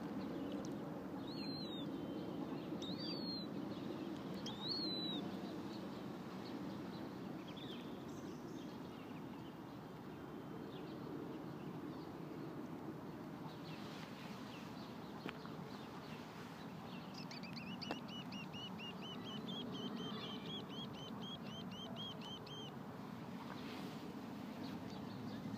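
Wild birdsong. Three sharp high calls, each sweeping down then back up, come in the first five seconds, then a rapid series of repeated chirps lasts about six seconds. A steady low outdoor rumble sits underneath.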